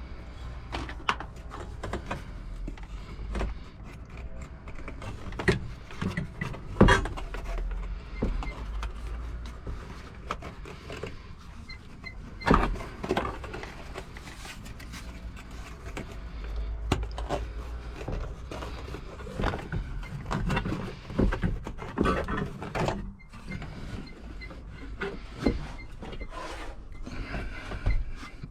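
Irregular knocks, clicks and rattles of hands working with tools and parts, over a steady low hum.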